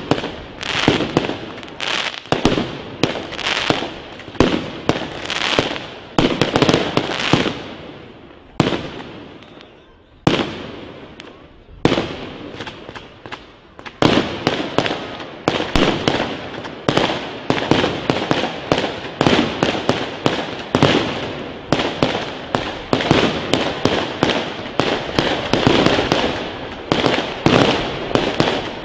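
Fireworks display: aerial shells bursting overhead in a rapid series of bangs. About a third of the way through the bursts thin out for a few seconds, then come back denser and almost continuous.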